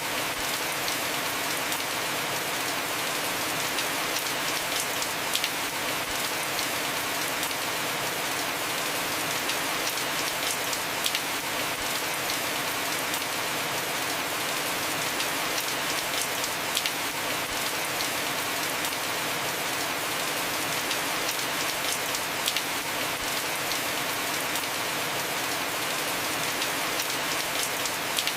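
Heavy rain falling steadily on a house roof, a constant hiss with scattered sharper drop hits.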